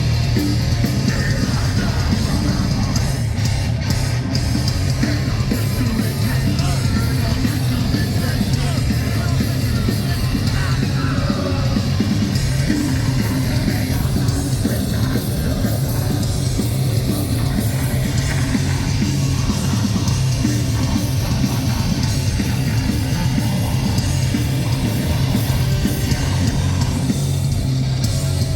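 Live metalcore band performing loud through a PA: distorted guitars, bass and pounding drums, with screamed vocals heard faintly.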